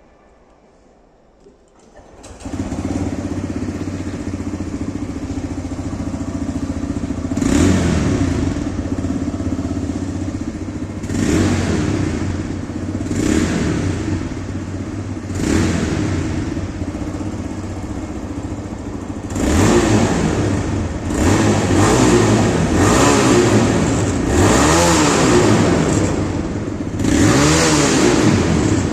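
TVS Raider 125's single-cylinder four-stroke engine with its stock exhaust, starting up about two seconds in and idling, then revved in short throttle blips. The blips come a few seconds apart at first and closer together in the second half.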